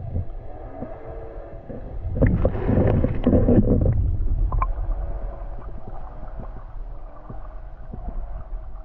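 Muffled water sloshing and gurgling with a low rumble, picked up by a GoPro in its housing dunked underwater on a pole. A louder churning stretch with clicks comes about two to four seconds in.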